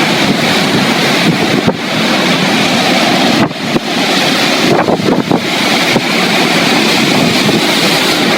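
Strong storm wind buffeting the microphone over crashing waves, a loud, steady rush that dips briefly a few times.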